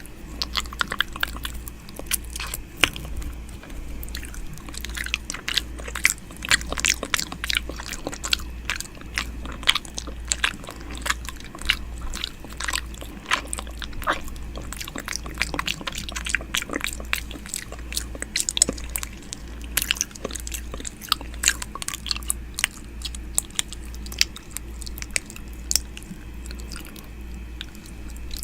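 ASMR 'ear eating' mouth sounds, made close against a binaural microphone's ear: a steady run of wet clicks and smacks, over a low hum.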